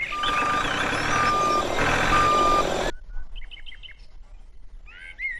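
Vehicle reversing alarm beeping three times, about once a second, over engine noise. It cuts off suddenly about three seconds in, followed by a few faint, short high chirps.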